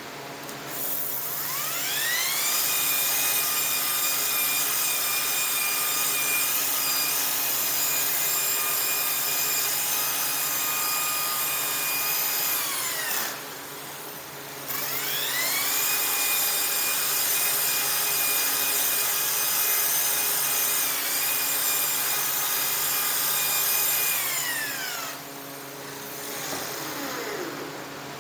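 Handheld power tool running 320-grit abrasive against an exhaust pipe of what is thought to be Inconel, a steady motor whine over the scratch of the abrasive. It runs twice, about ten seconds each time, spinning up at the start of each run and winding down at the end, with a short pause between.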